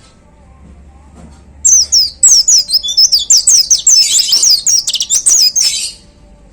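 White-eye (pleci) singing a fast burst of high, rapidly sliding chirps, starting just under two seconds in and lasting about four seconds. This is the rapid 'tembakan' (shooting) song that bird keepers prize.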